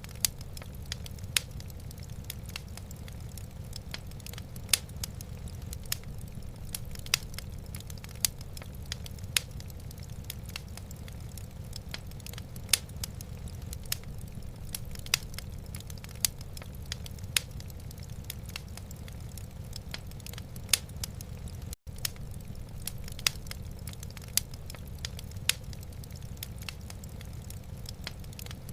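Wood fire burning in a fireplace: irregular sharp crackles and pops, several a second, over a steady low rumble. The sound drops out for a split second about three-quarters of the way through.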